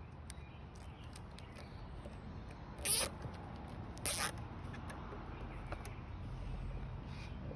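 Two short rasping zips about a second apart: a plastic cable tie being pulled tight.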